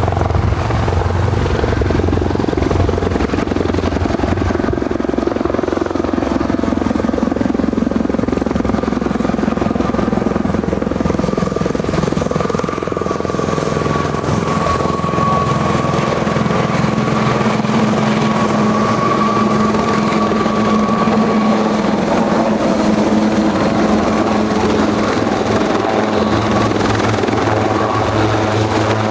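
Helicopter running close by: a steady, loud rotor and engine noise, with a thin high whine that sets in about halfway through.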